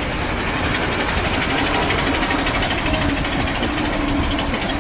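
Antique car's engine chugging with a rapid, even beat as the car drives past.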